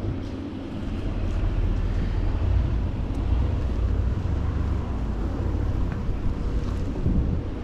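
Wind rumbling on the microphone while cycling, mixed with road and traffic noise.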